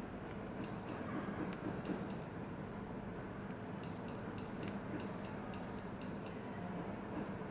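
A mini split air conditioner's indoor unit beeping as it takes remote-control commands: two separate short beeps, then a run of five about half a second apart. Under the beeps is a steady low hum.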